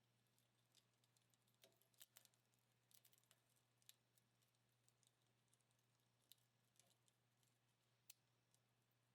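Very faint, sparse crackles and pops of a dying wood fire, scattered at irregular intervals, with a couple of louder snaps about two seconds in and near the end. A faint low steady hum lies underneath.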